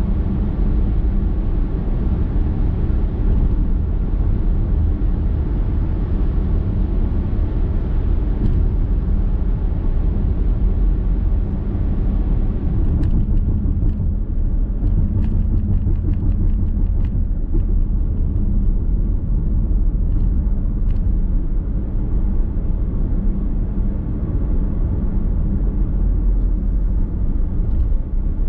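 Car's road and tyre noise heard inside the cabin while driving, a steady low rumble. About halfway through, the hiss thins out and a few faint ticks come in.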